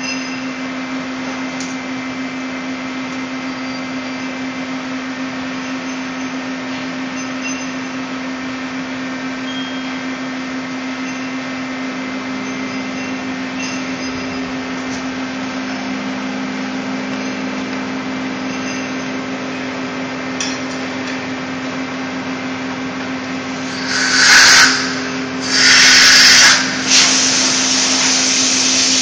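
PUMA 350 CNC lathe running with a steady machine hum. About 24 seconds in come two short, loud hissing bursts, then a longer loud hiss near the end.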